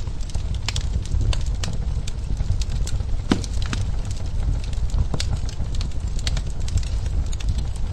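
Wood fire crackling in a fireplace: irregular snaps and pops over a steady low rumble of burning, with one sharper pop about a third of the way in.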